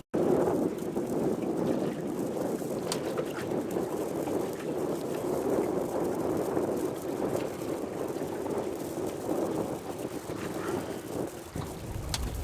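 Steady rushing noise of wind and water from a boat under way, with a few faint clicks.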